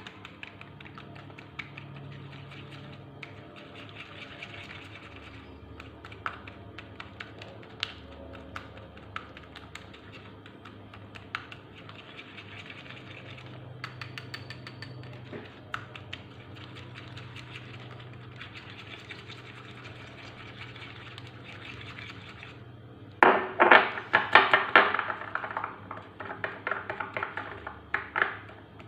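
Hand-stirring a thick cream of cheese, instant coffee, milk and starch in a bowl: soft scraping with small clicks of the utensil against the bowl, becoming much louder and faster about 23 seconds in.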